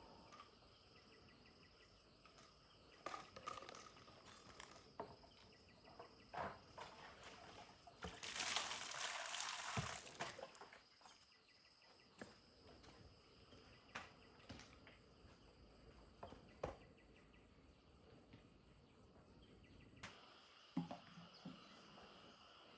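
Scattered light clicks and knocks of parts being handled, with a hiss lasting about two seconds a little over a third of the way in, over a faint steady chirring of insects.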